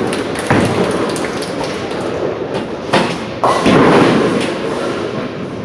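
Bowling alley din: sharp thuds of bowling balls and pins, three hits about half a second, three and three and a half seconds in, the last followed by a loud clatter, over the steady rumble of balls rolling on the lanes.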